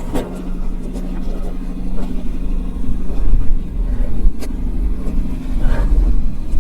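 Wind buffeting the microphone in uneven low rumbles, over a steady low motor hum that fades out about five seconds in.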